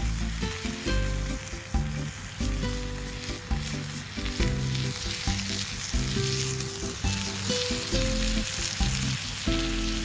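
Chicken sizzling in a Turk forged-iron frying pan over a wood fire, a steady frying hiss, with background music playing under it.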